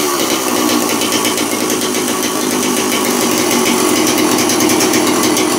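Stihl 041 AV two-stroke chainsaw engine running steadily and loud. The owner suspects it is leaking exhaust past the muffler, which makes it louder than it should be.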